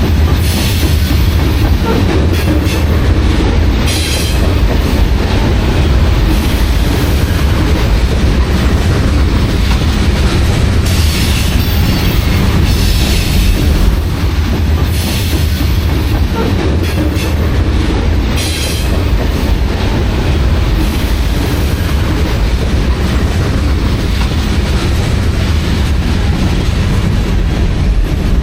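Freight train cars rolling past on the rails with a steady heavy rumble and clickety-clack, and brief high wheel squeals now and then.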